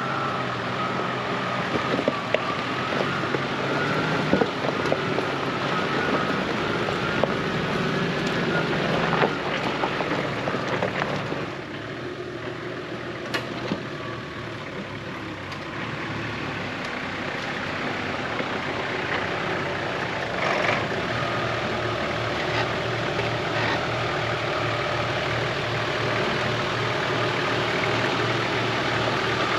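A 4WD's engine running at low speed as it works over a steep bush track, with scattered sharp knocks and clicks; it is a little quieter for a few seconds near the middle.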